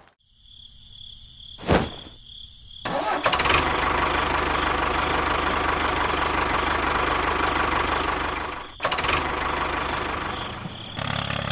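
A motor starts up about three seconds in and runs steadily, with a sharp click before it and a brief break near the end.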